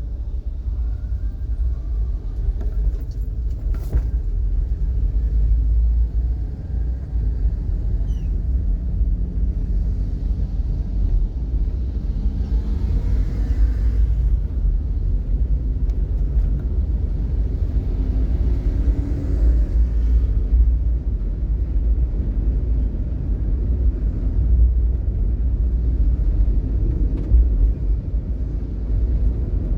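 Steady low rumble of a vehicle driving in heavy traffic. About twelve and eighteen seconds in, two swells of hiss rise and fade, typical of tyres on a wet road.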